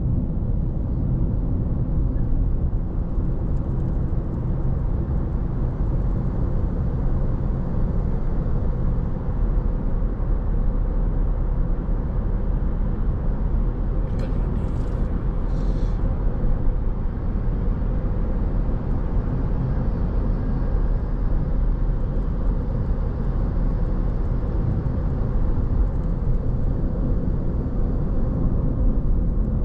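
Car driving at a steady speed: a constant low rumble of engine and tyre road noise, with a short higher hiss about halfway through.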